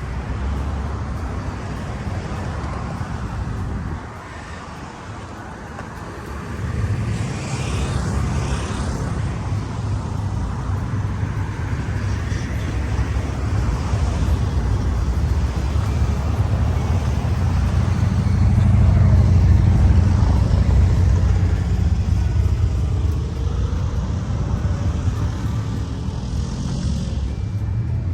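Traffic of slow-moving cars on a busy road, a steady low engine rumble. It dips for a moment a few seconds in, then swells to its loudest about two-thirds of the way through as vehicles pass close by.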